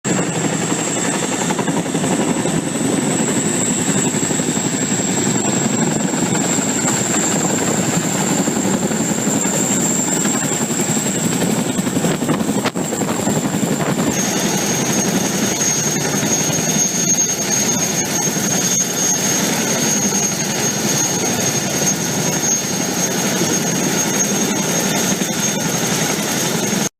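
Aircraft turbine engine running steadily: a constant high whine over a loud rushing noise, with the whine dropping to a slightly lower pitch about halfway through.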